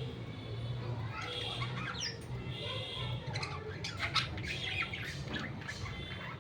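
Pet budgerigars chirping and squawking, with short sharp calls crowding together in the middle. A low steady hum runs underneath.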